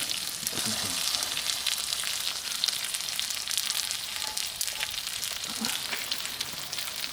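Food frying in a hot pan, sizzling steadily with many small crackles and pops of spattering fat.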